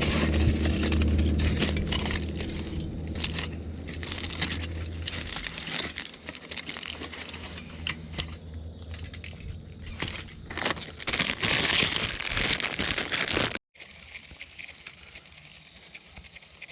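Crinkling and rustling of handled plastic, with many small crackles and clicks. A low steady hum sounds for the first five seconds or so, then stops. The sound cuts out abruptly near the end and what follows is much quieter.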